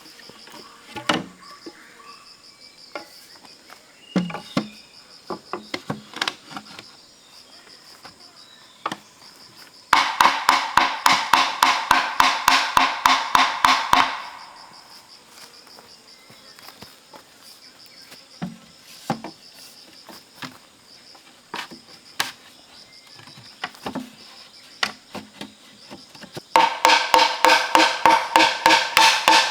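Insects trilling steadily in the forest, with scattered light knocks and clicks of work. Twice, for about four seconds each, once about ten seconds in and again near the end, a loud pitched sound pulses rapidly, about six pulses a second, then stops.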